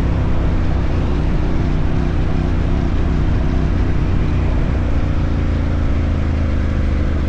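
Motorcycle engine running steadily while being ridden along.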